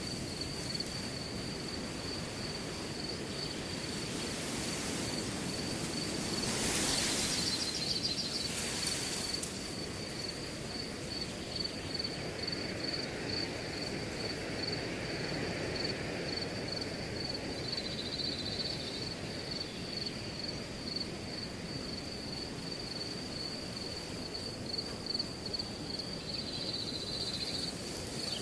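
Wind rustling through grass with crickets chirping in a steady, high, fast-pulsing trill. The rustle swells briefly about seven seconds in.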